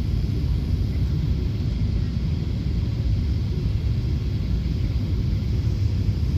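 Steady low rumble of a Boeing 777 airliner, with a fainter hiss higher up, unchanging throughout.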